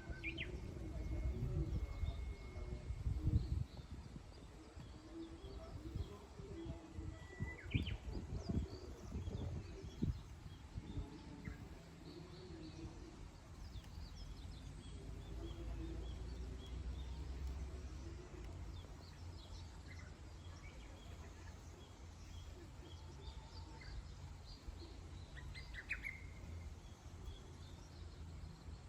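Songbirds chirping now and then: short, high calls near the start, around eight seconds in and again near the end, with fainter chirps between, over a steady low outdoor rumble.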